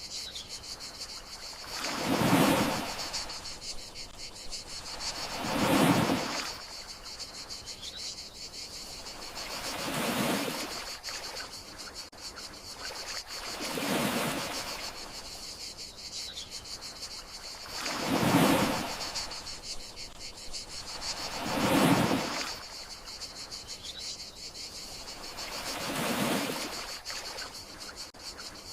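Gentle sea waves washing ashore about every four seconds, each swell rising and falling away, over a steady high chirring of crickets.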